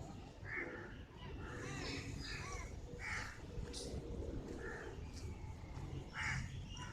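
Faint outdoor bird calls: short harsh calls roughly once a second, with a few lighter chirps between them.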